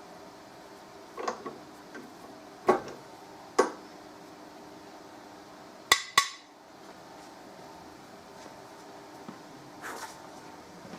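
Metal tools and parts being handled and set down on a workbench: a handful of sharp clinks and knocks, the loudest a quick pair about six seconds in, over a faint steady hum.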